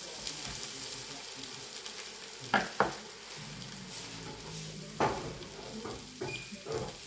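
Diced onion and an omelette frying in pans on the hob, a steady sizzle. A few sharp clicks and knocks cut through it: two close together about two and a half seconds in, then another near five seconds.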